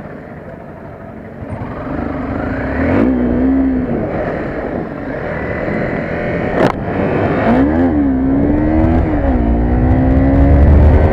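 Honda CBR250R's single-cylinder engine accelerating through the gears: the pitch climbs in each gear and falls back at each upshift, getting louder overall. Wind rush on the bike-mounted microphone grows with speed, and there is one sharp knock about two-thirds of the way through.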